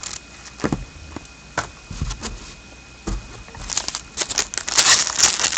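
Trading cards being handled on a table: a few scattered soft taps and clicks, then a dense run of crinkling from about four seconds in as a pack wrapper is worked open.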